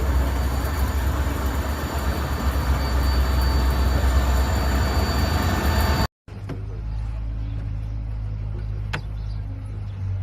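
Vehicle running noise: a loud, steady rumble with a faint high whine that cuts off about six seconds in. Then a quieter, steady engine hum, with a single sharp click about nine seconds in.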